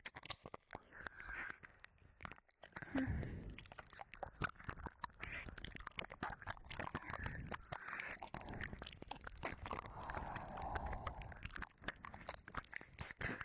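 Wet mouth sounds and licking on a binaural dummy-head microphone's ear: a steady stream of close, sticky tongue clicks and smacks with soft breaths, pausing briefly about two and a half seconds in.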